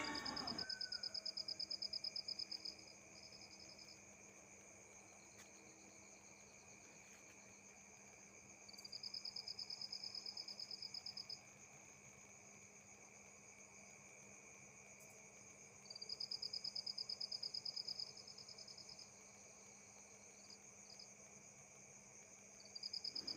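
Insect trilling in high, rapidly pulsed bursts of two to three seconds, repeating about every seven seconds, over a faint steady high-pitched hum.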